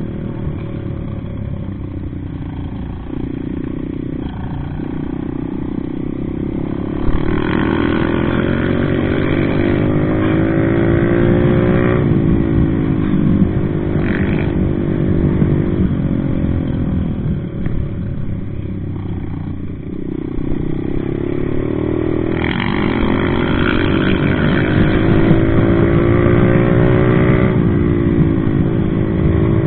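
Regulmoto ZR250 enduro motorcycle's single-cylinder engine under way, its pitch climbing under throttle and dropping sharply several times as the rider shifts or rolls off. It grows louder about seven seconds in and again near twenty-two seconds.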